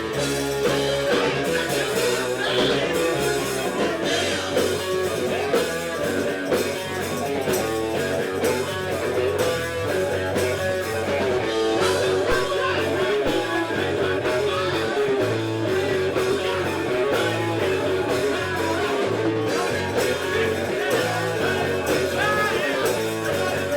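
Rock band playing loud and steady, led by electric guitar over bass and drums, with a voice singing.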